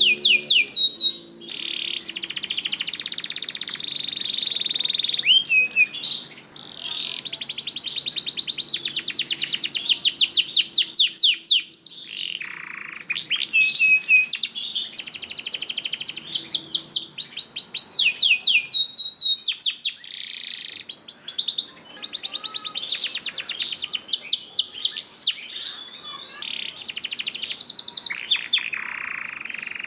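Domestic canary singing a long, continuous song of fast, evenly repeated trills and rolls, the phrases broken by brief pauses every few seconds.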